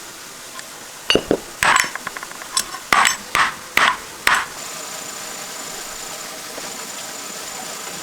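Metal tools and engine parts being handled, knocking and clinking together in about eight sharp strikes over three seconds, followed by a faint steady high tone.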